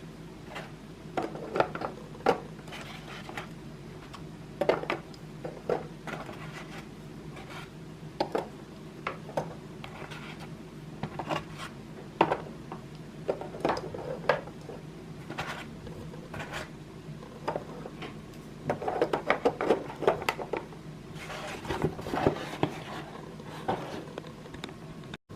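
Kitchen containers and dishes being handled and set down: irregular clicks, taps and light knocks, with rubbing and scraping, and a busier run of clatter about three quarters of the way through.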